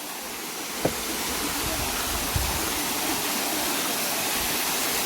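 Steady rush of a small waterfall running low on water in the dry season, growing a little louder as it goes on, with a faint click about a second in.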